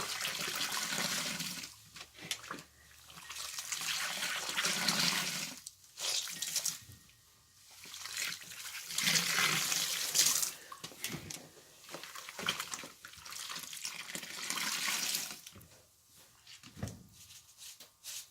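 Soapy water squished and streamed out of wet material as it is squeezed repeatedly, in about six wet bursts of one to two seconds each with short pauses between them.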